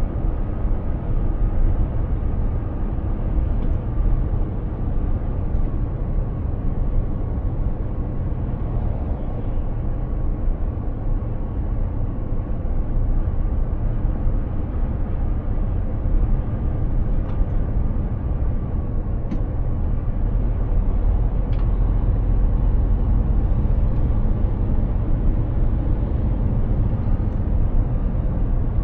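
Mercedes-Benz Actros 2763 truck driving at a steady pace: diesel engine drone and tyre and road noise, even throughout, with a faint steady whine.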